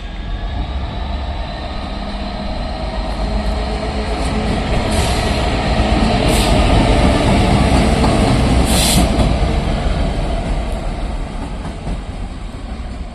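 Class 66 diesel locomotive going by, its EMD two-stroke V12 engine rumbling over the noise of wheels on rail. The sound swells to its loudest about halfway through and then eases off, with a few sharp clicks near the middle.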